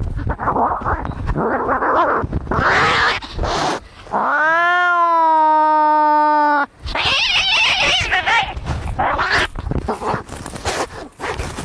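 Angry cats fighting: harsh hissing and screeching, broken about four seconds in by one long yowl of about two seconds that rises and then holds steady, then more hissing and screeching.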